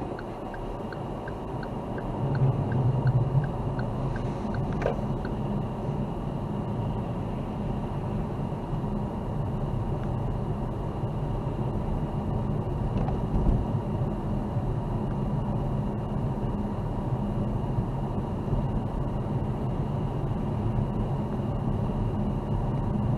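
Car driving on snowy winter city streets: a steady hum of engine and tyre noise. A light regular ticking, about three a second, runs for the first few seconds and then stops.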